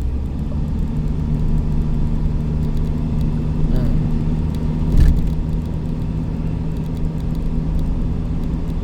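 Steady hum of a road vehicle running, with a brief louder bump about five seconds in.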